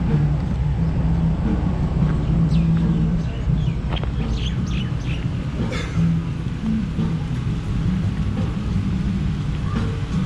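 Steady low vehicle rumble, with a few short high chirps about three to six seconds in.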